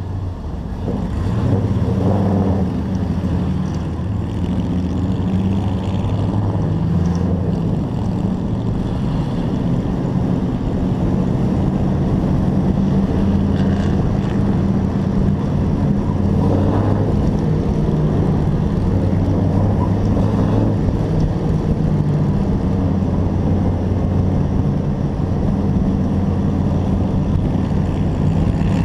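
Hobby-class race truck engine running steadily, heard through an onboard camera mounted in the truck.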